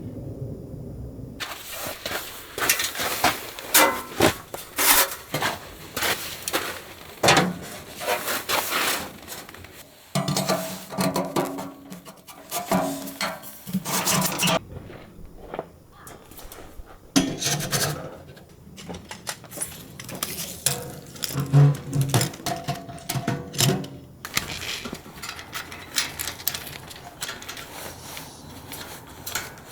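Objects being handled by hand: repeated knocks and clinks mixed with rubbing and scraping, in several bursts with short pauses between.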